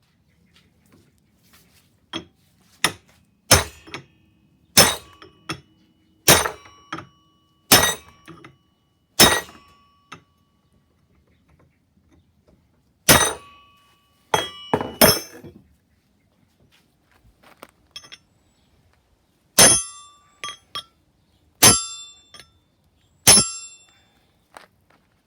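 Hammer blows on steel: about fourteen sharp metallic strikes, each ringing briefly. The first seven come at an even pace of about one every second and a half, then the strikes come in shorter groups with pauses between them.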